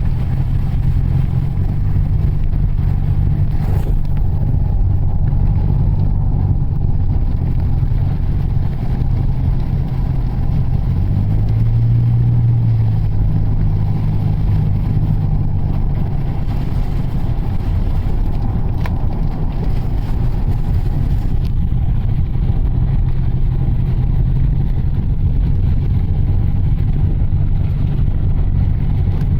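Steady low drone of engine and road noise inside a moving Mitsubishi Delica's cabin. The engine hum swells briefly about eleven seconds in, then settles.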